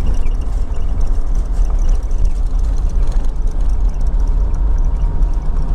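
A vehicle driving slowly along a campground dirt track: a steady low rumble of engine and tyres.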